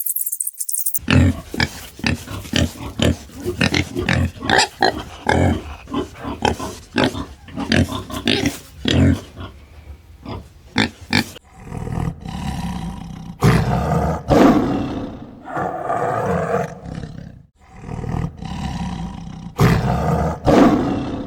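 Farm animals calling: after a brief silence, a quick run of short, choppy calls, then longer drawn-out calls.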